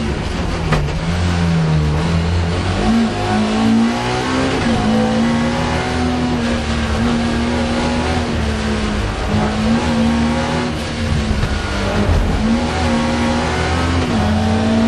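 Mk2 Ford Escort rally car's engine running hard at high revs on a hillclimb, heard from inside the cabin. Its pitch dips and climbs again several times.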